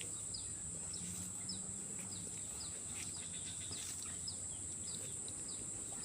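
Swamp ambience: a steady, high-pitched insect drone with short falling chirps repeating about twice a second, and a faint low hum that comes and goes.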